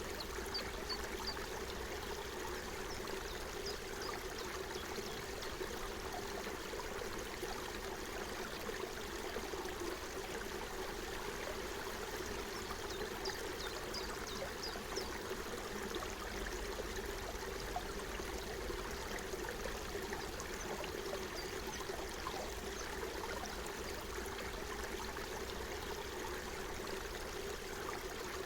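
Forest stream running, a steady, unbroken babble of flowing water.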